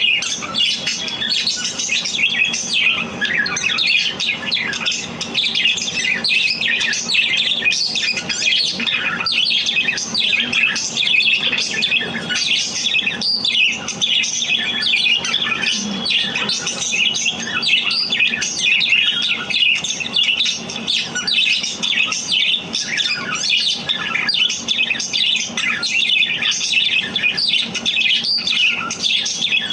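Budgerigars chirping and chattering, a continuous stream of short, overlapping high-pitched calls with occasional squawks.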